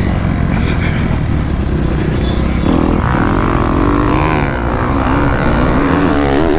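Kawasaki KX250F four-stroke motocross bike's engine running on the track, revving up and down with the throttle from about three seconds in, over a steady rumble of wind on the microphone.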